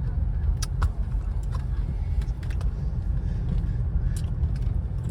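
Car driving slowly, heard from inside the cabin: a steady low rumble of engine and tyres, with a few light clicks and rattles scattered through it.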